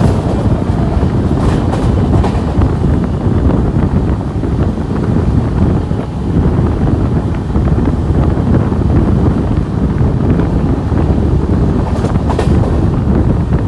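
Steady rumble and rush of a moving Garib Rath Express passenger train heard from on board, with wind buffeting the microphone and a few faint clicks from the track.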